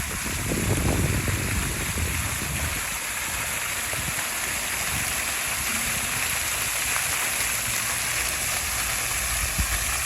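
Steady rush of falling and spraying water from a park water feature, with some low rumble in the first couple of seconds.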